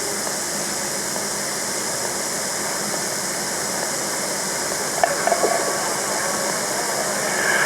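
Steady hiss and background noise of an old, noisy recording, with a few faint short sounds about five seconds in.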